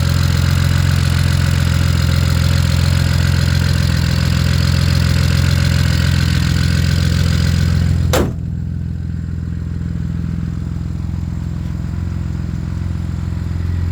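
BMW 335i's N54 twin-turbo inline-six idling steadily, running on a shorter belt with the AC compressor bypassed. About eight seconds in comes a single sharp bang, after which the engine sounds duller and quieter.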